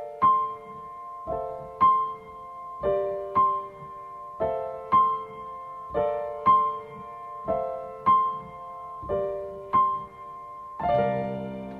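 Gentle background piano music: a slow, even pattern of struck chords, each followed by a bright higher note, every note ringing and fading.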